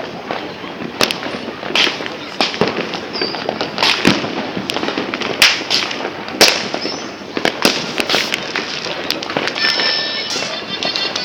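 New Year fireworks and firecrackers going off all around: an irregular barrage of sharp bangs and pops, some close and loud, over a constant crackling din of more distant ones. About ten seconds in, a brief high whistling tone joins in.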